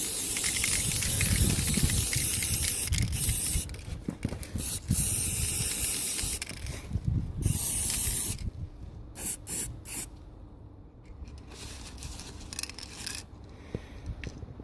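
Aerosol spray can hissing in long spurts for about eight seconds, then several short puffs with gaps between them.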